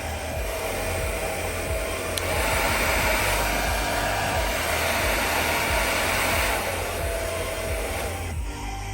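Philips 1600 W hair dryer running with a steady rush of blowing air and a motor hum. It gets louder and brighter a couple of seconds in, then drops back down before the end.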